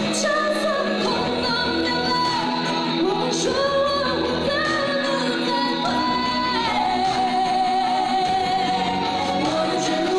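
A female singer singing a ballad live over instrumental backing, holding long notes with vibrato.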